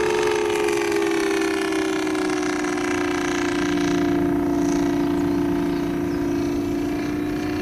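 SAITO three-cylinder radial gasoline engine of a radio-controlled Zero Type 52 scale model running in flight, a steady drone. Its pitch sinks slightly over the first couple of seconds and edges up again near the end.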